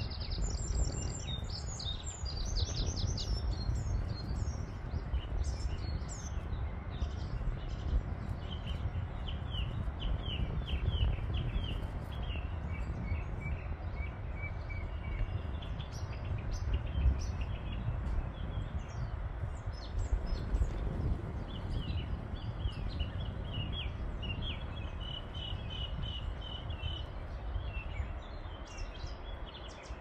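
Songbirds singing: repeated chirps and short trills throughout, with a high rapid trill in the first few seconds, over a steady low rumble.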